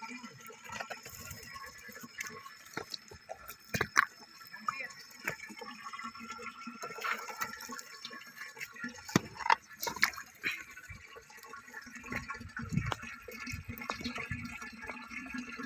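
Water splashing and dripping in a shallow dish of bathing water, with irregular sharp splashes, the loudest about four seconds in and a cluster around nine to ten seconds.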